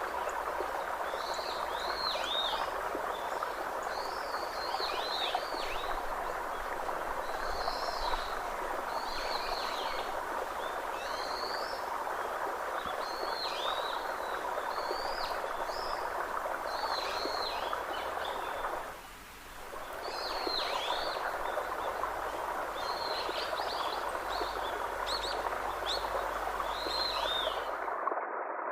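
A bird chirps over and over, short downward-hooking calls about once a second, over a steady rushing background noise that dips briefly about two-thirds of the way through. Near the end the sound cuts out completely for a moment.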